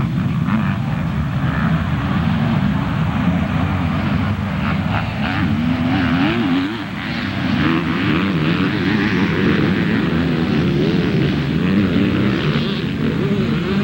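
Motocross motorcycle engines racing, their pitch rising and falling as the riders accelerate and back off. The sound dips briefly about seven seconds in, then builds again.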